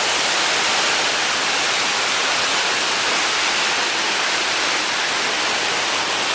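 Steady, even rushing noise of falling water, with no change in level.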